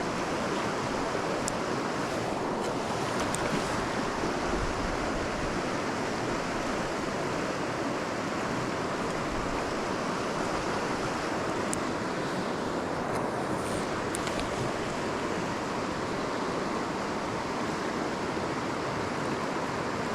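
Small creek rushing steadily over its bed, a constant wash of water noise, with a few faint clicks.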